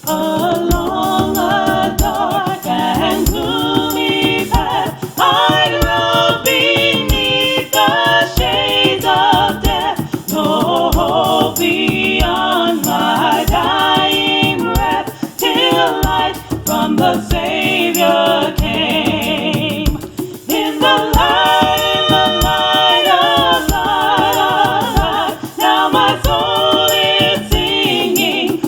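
Gospel choir singing with instrumental accompaniment, a steady percussion beat ticking through it.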